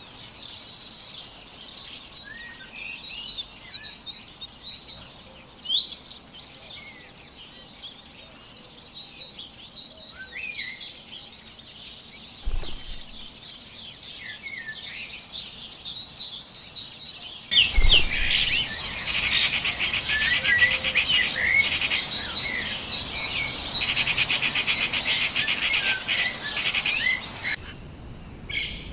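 Wild birds chirping and calling in many short, rapid notes. About two-thirds of the way through, the sound cuts abruptly to a louder, denser chorus with a fast trill, which stops suddenly shortly before the end.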